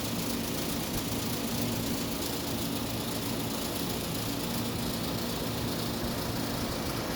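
A motor running steadily at an even pitch, a constant engine-like hum that neither revs up nor dies down.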